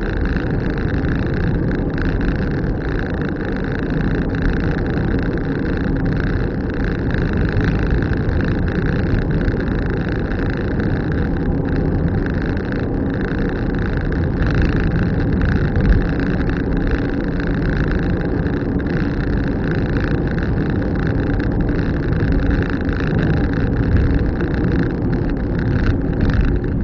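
Car driving along a road: steady engine and tyre noise with a constant low rumble.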